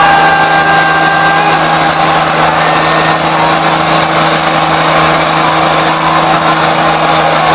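Tractor diesel engines running steadily at high revs, pulling against each other under load.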